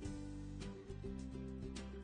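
Light background music with plucked strings over a bass line and soft regular percussion.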